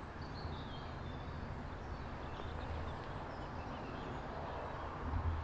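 Steady low rumble of road traffic passing nearby, with a few faint high bird chirps early on.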